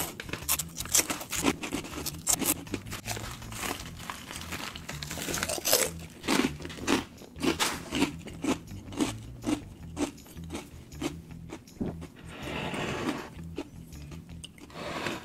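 Close-miked crunching of a crisp packaged snack being bitten and chewed, with the plastic snack packet crinkling as a hand reaches into it near the start. The crunches come as many short, sharp cracks.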